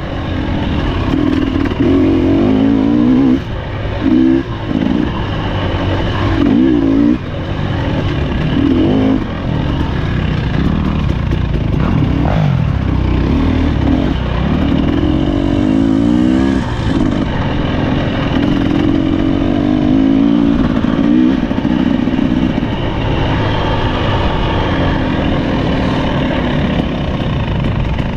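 Husqvarna TE300 two-stroke dirt bike engine revving up and down as it is ridden, with brief throttle cuts a few seconds in and again at about seven seconds.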